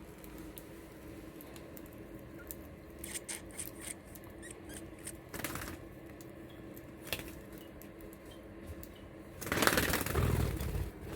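Budgies pecking and cracking seed, heard as scattered small clicks and ticks. A louder rustling burst comes near the end.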